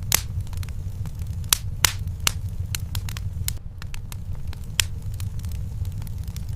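Wood fire burning in a fireplace, crackling with irregular sharp pops over a steady low rumble. The loudest pops come just after the start and a few more in the first couple of seconds.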